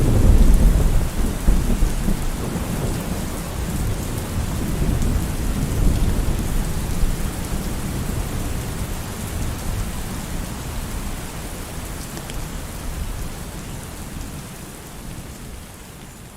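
Thunderstorm: rain falling steadily while a thunderclap breaks right at the start and rolls on as a long low rumble that slowly dies away. Rain and rumble gradually fade toward the end.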